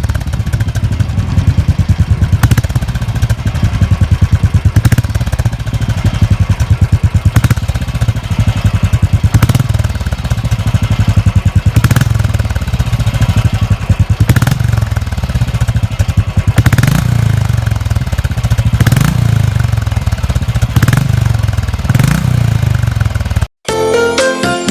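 Royal Enfield single-cylinder motorcycle engine running with its steady exhaust thump, the throttle blipped about every two seconds. It cuts off about a second before the end and music starts.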